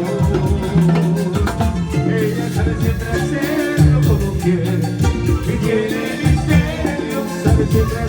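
A band playing Latin music in a salsa style, with a steady bass line and regular percussion.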